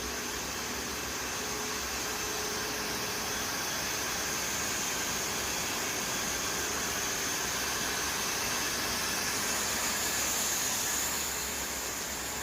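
Blade polishing machinery running steadily, a constant whirring hiss with a high edge that swells slightly about ten seconds in.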